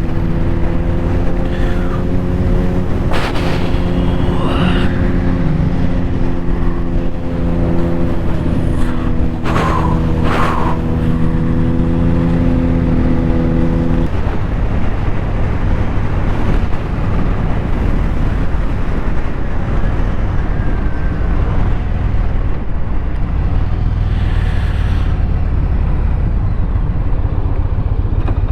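Yamaha Stratoliner V-twin motorcycle running at a steady highway cruise under heavy wind and road rush. About halfway through, the steady engine tone drops away, leaving mostly wind noise.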